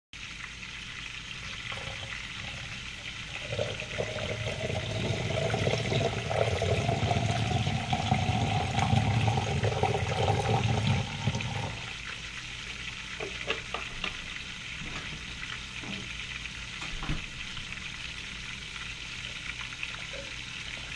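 Battered burbot pieces sizzling as they deep-fry in hot oil in a pot on the stove, a steady hiss. For several seconds in the middle a louder sound with a slowly rising pitch runs over it, and a few light knocks follow.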